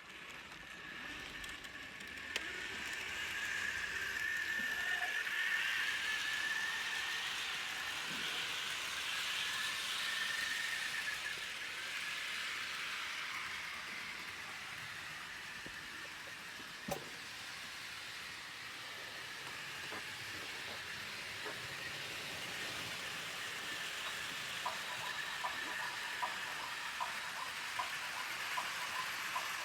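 HO-scale model train running on track: a Jouef SNCF 141P steam locomotive model on analog DC pulling passenger cars, with a steady high whine and wheel rumble. About three-quarters of the way in, evenly spaced clicks begin as the wheels pass over rail joints.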